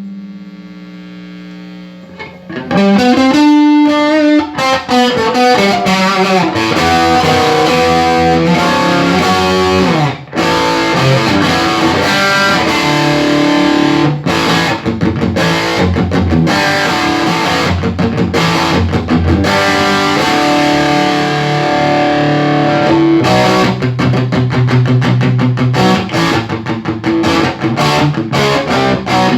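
Electric guitar played through a Yamaha T100C tube amp head, sounding distorted. A held chord dies away, then loud riffing starts about two and a half seconds in and carries on, with one short break about ten seconds in.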